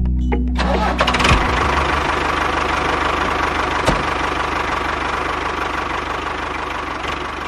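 Small engine of a homemade mini tractor running steadily with a fast, even beat, with one sharp click about four seconds in. Background music ends about half a second in.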